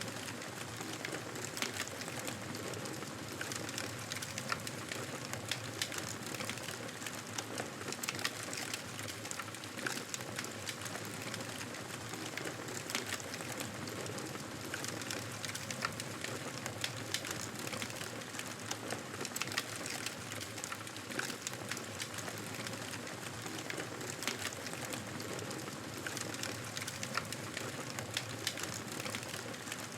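Campfire burning: a steady hiss of the flames with frequent small crackles and pops of the wood.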